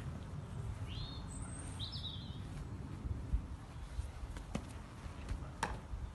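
Quiet outdoor garden ambience with a steady low rumble. A bird chirps twice about a second in, and a couple of short sharp clicks come near the end.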